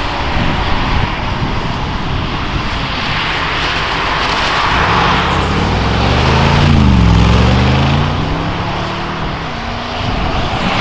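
Mercedes-AMG G63's twin-turbo V8 accelerating past, its engine note rising, dipping sharply about seven seconds in, then rising again before fading as it pulls away. A steady hiss of tyres on wet asphalt runs under it.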